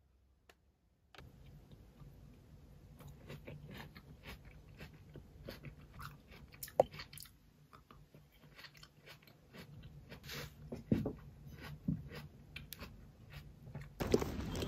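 Close-miked, ASMR-style biting and chewing of crisp green grapes (Autumn Crisp), with irregular sharp crunches and wet chewing. Near the end it gives way abruptly to louder outdoor noise.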